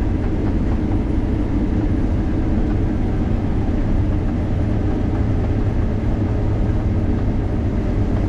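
Combine harvester running steadily while cutting soybeans: a constant low engine and machinery drone with no change in pitch or level.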